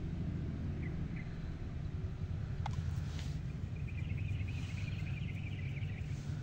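Outdoor ambience: a steady low rumble with birds chirping. There is a quick, sharp chirp a little under three seconds in and a run of chattering calls from about four to six seconds.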